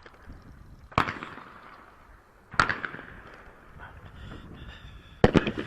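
Shotgun shots at clay targets: two fainter single bangs about one second and two and a half seconds in, then a louder report with two close cracks near the end, each trailing off in a short echo.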